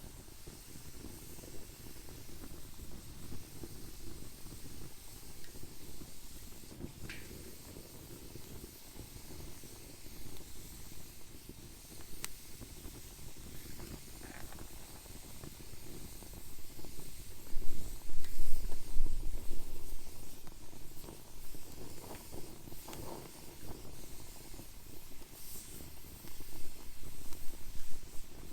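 Wood fire burning in a fire pit: a steady low rumbling hiss with scattered sharp crackles and pops. A louder low rumble swells about two-thirds of the way through.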